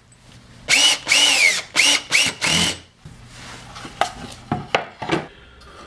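Handheld power drill run in about five short trigger bursts, its motor whine rising and falling with each squeeze, as it drives in fasteners to join two pieces of wood. A few sharp knocks follow near the end.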